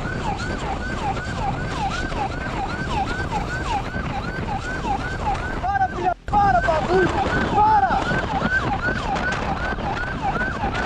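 Police car siren in a fast yelp, its pitch sweeping about three times a second, over steady road and wind noise from the pursuing cruiser. The sound cuts out briefly about six seconds in.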